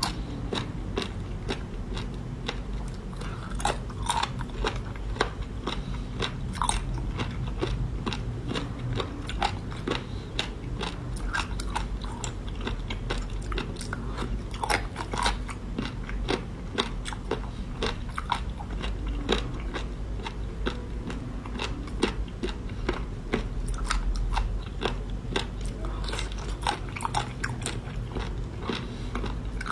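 A person eating seafood: steady biting and chewing with many small crunches and clicks.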